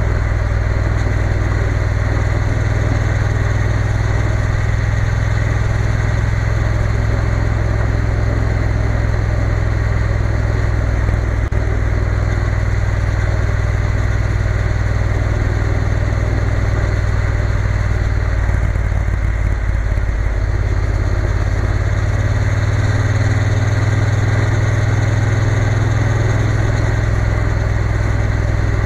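Triumph Bonneville T120 parallel-twin engine running steadily while riding, with rushing air noise. The engine note changes around twenty seconds in and then holds steady again.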